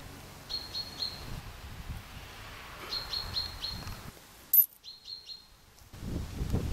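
A small bird calling in short phrases of three or four quick high chirps, repeated three times, over a light outdoor background. There is a single sharp click about four and a half seconds in, and a low wind rumble on the microphone near the end.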